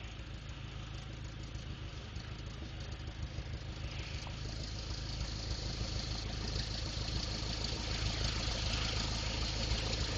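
Cessna light aircraft's piston engine running at low power, an even low pulsing that grows gradually louder.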